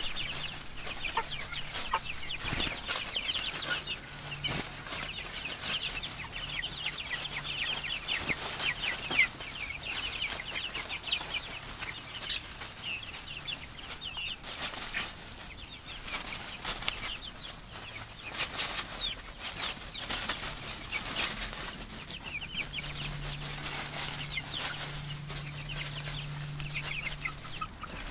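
A flock of young Cornish cross meat chickens peeping continuously, many short high chirps overlapping, with scattered crackles of the birds scratching in dry leaves.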